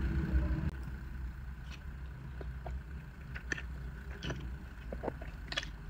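Someone quietly chewing, with faint scattered clicks and small mouth noises, over a steady low hum.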